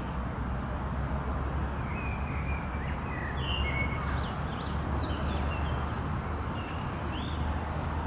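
Small birds chirping, with short high whistled calls scattered through the middle, over a steady low rumble.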